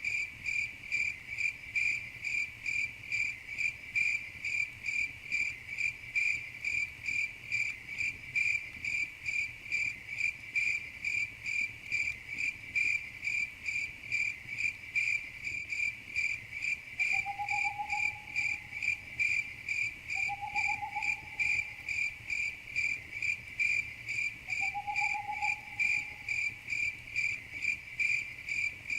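Cricket chirping in a steady, even rhythm of high-pitched pulses, about two a second. Three short, faint, lower rising calls come partway through and near the end.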